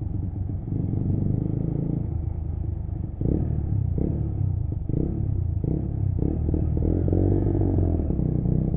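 Lexmoto Assault 125cc motorcycle engine running under way, its note shifting as the throttle changes. A run of short knocks and clatters comes between about three and seven seconds in.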